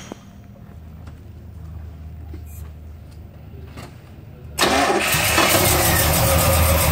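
Chevrolet 396 big-block V8 starting up. It catches abruptly about four and a half seconds in and then runs loud and steady with a deep rumble, after a quiet stretch with only a faint low hum.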